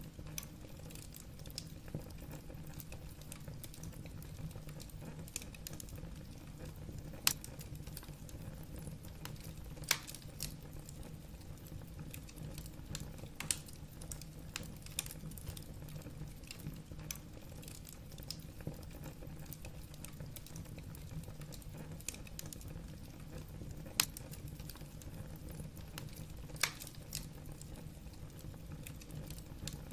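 Wood fire crackling in a fireplace: irregular sharp pops and snaps of burning logs over a steady low rumble of the flames, with a few louder snaps scattered through.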